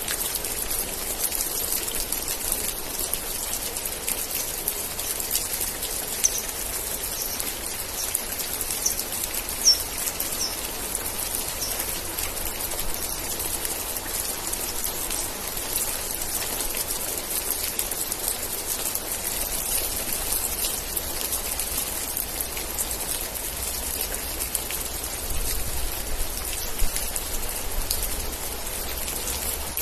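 Steady rain falling, with a dense patter of individual drops ticking on surfaces. Between about a fifth and two-fifths of the way in, there is a run of about seven short, high chirps.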